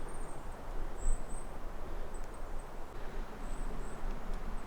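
Small birds giving short, very high, thin chirps every second or two in a forest, over a steady low rumble of wind on the microphone.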